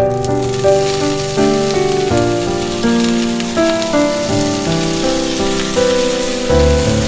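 Spinach and sausage pieces sizzling in a hot frying pan, starting as they are tipped in and then stirred with chopsticks. Background music with a slow melody plays over it.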